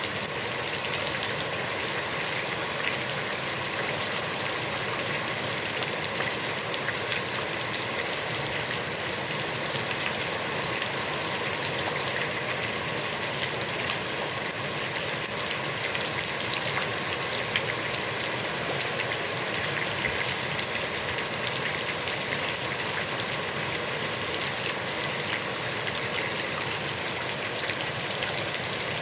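Heavy rain pouring steadily onto a pond's surface, a dense even hiss of countless drops splashing on water.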